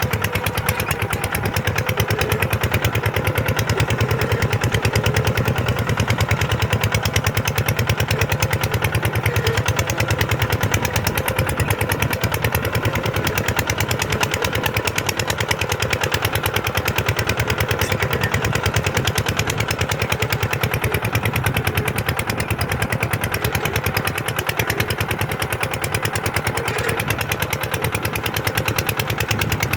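Kubota tractor's diesel engine running steadily, with a fast, even chugging that holds the same level throughout.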